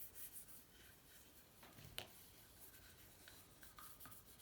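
Faint rubbing and scratching from hands working on the aluminium engine case, with one sharp click about two seconds in.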